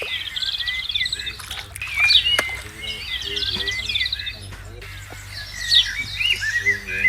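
Birds chirping and singing: a high twittering phrase that repeats every few seconds, with some lower calls mixed in.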